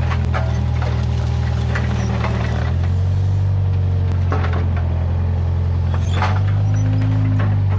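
Case 580G backhoe loader's diesel engine running steadily, its note shifting in pitch a couple of times as it works, with scattered sharp knocks and cracks over it.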